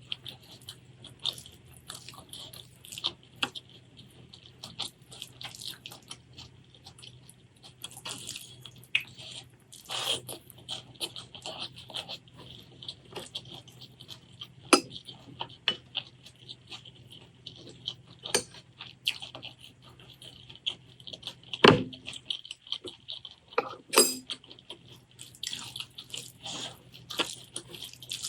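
Close-miked eating: wet chewing and mouth smacks with many small clicks, and a couple of sharper knocks in the last third.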